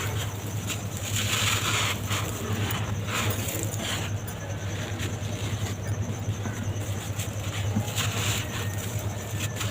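Dry, crumbly material being crumbled, with irregular gritty crackling and crunching over a steady low hum.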